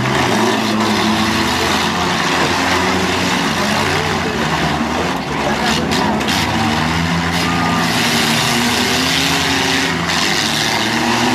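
Several demolition derby cars' engines running and revving at once, loud and continuous, their pitches rising and falling against each other.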